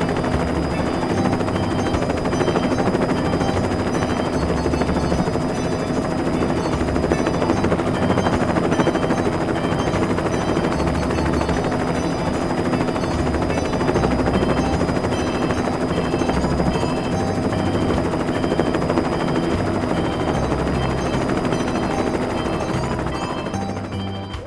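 Helicopter rotor sound effect, a steady chopping whirr, with a simple tune playing over it; it cuts off near the end.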